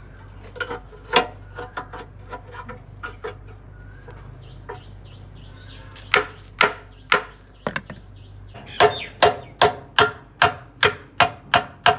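Hammer blows on metal while a car's steering is being worked on: scattered knocks at first, then a steady run of about two and a half strikes a second in the last few seconds. A low steady hum underneath stops about two-thirds of the way through.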